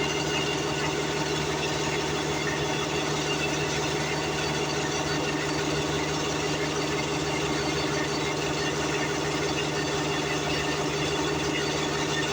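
A motor or engine running steadily at constant speed, with a low hum that does not change.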